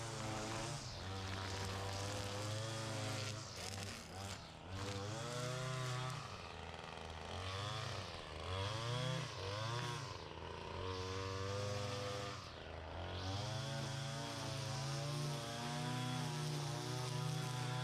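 Small gas engine of lawn equipment running. Its speed drops and climbs again several times in the middle, then settles back to a steady pitch.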